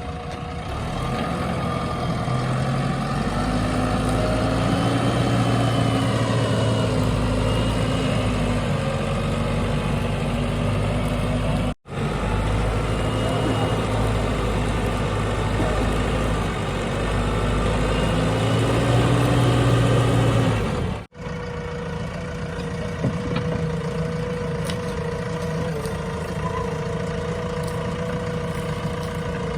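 Diesel engines of a backhoe loader and tractors running; the engine note rises and strengthens under load a few seconds in. The sound breaks off abruptly twice, and after the second break a steadier engine keeps running.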